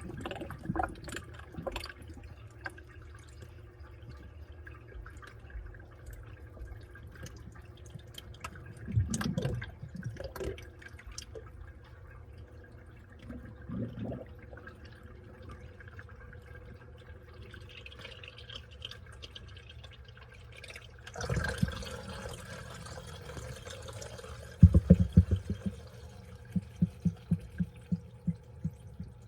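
Washing machine running its wash cycle: water sloshing and dripping in the drum over a faint steady hum. About two-thirds of the way through comes a brief hissing rush of water, and near the end a quick series of splashes about two a second.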